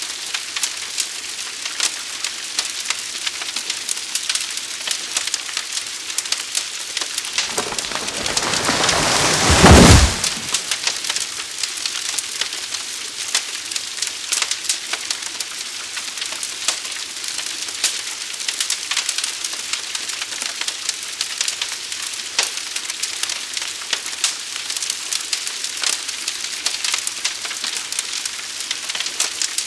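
Wildfire burning: a steady hiss of flames full of sharp crackles and pops. A deep rushing whoosh builds from about seven seconds in to the loudest point near ten seconds, then cuts off abruptly.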